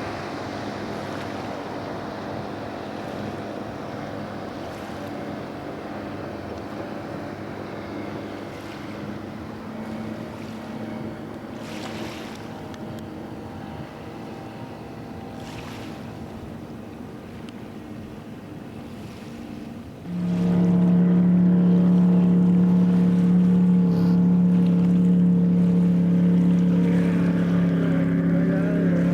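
Water ski boat's engine running steadily under wind and water noise. About twenty seconds in it suddenly becomes much louder, a strong steady drone.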